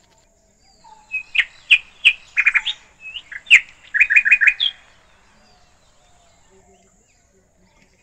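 A bird chirping: a string of short, sharp high notes, some in quick runs of four or five, stopping about five seconds in.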